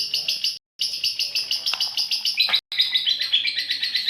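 Female lovebird giving its long ngekek chatter: a fast, unbroken run of shrill chirps at about seven notes a second. The run is cut by two brief silent gaps, the first under a second in and the second past halfway.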